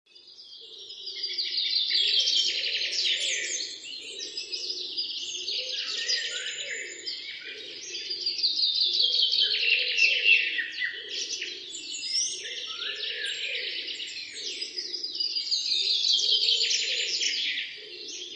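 Birds chirping and singing in trilled phrases that slide downward, repeating every few seconds, with a lower warbling call underneath.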